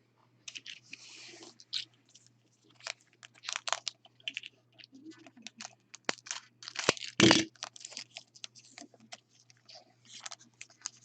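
Basketball trading card packs and their box being handled and opened: wrappers crinkling and cards and cardboard rustling in a scatter of small clicks, with one louder knock a little past seven seconds.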